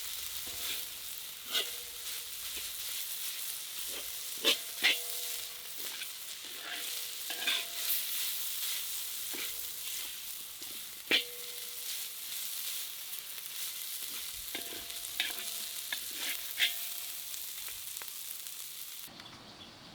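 Food sizzling in a hot pan while it is stirred, with a metal utensil clinking and ringing against the pan about a dozen times. The sizzle drops away abruptly near the end.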